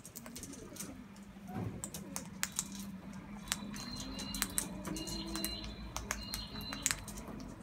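Birds pecking seed off a hard feeding surface: irregular sharp taps and clicks, with a faint high whistled bird call in the middle.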